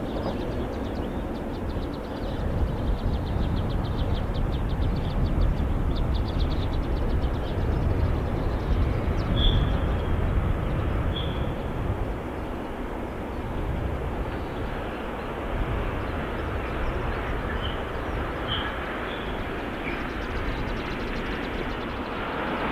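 Container freight train approaching and running past on the far tracks: a steady low rumble that swells slightly as the wagons roll by. A few short high-pitched chirps sound in the middle.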